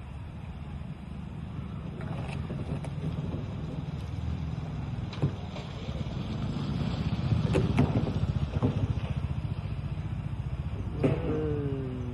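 A motor running steadily with a low rumble, with several sharp knocks and clunks over it and a brief falling tone near the end.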